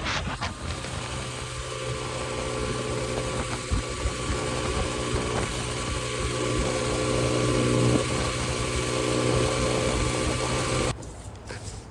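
Xpro 125cc dirt bike's single-cylinder four-stroke engine idling steadily, stopping abruptly near the end.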